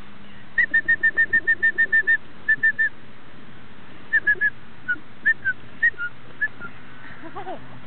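A bird calling: a fast, even run of about a dozen short high notes at one pitch, then a few scattered single notes.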